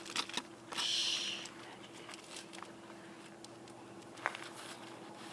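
Frozen lake ice making faint scattered ticks and crackles, with one short, sharp, rising ping a little past four seconds in, the sound of the ice sheet expanding and cracking. A faint steady hum sits under it.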